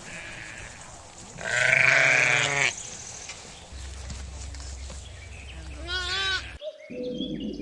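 Sheep bleating: one loud, wavering bleat about a second and a half in, then a shorter, fainter bleat about six seconds in.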